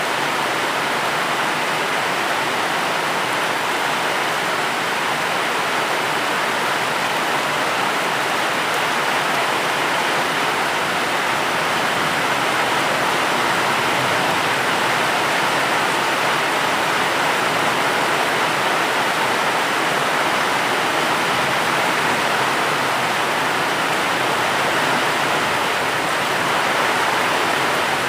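Steady rain, an even rushing hiss with no single drops or thunder standing out.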